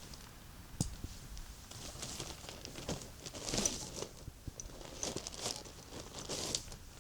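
Crinkling and rustling of handled material, with scattered small clicks. It swells twice, about halfway through and near the end.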